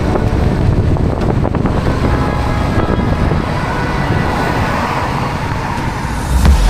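Motorcycle running on the road, its engine under a steady rush of wind noise.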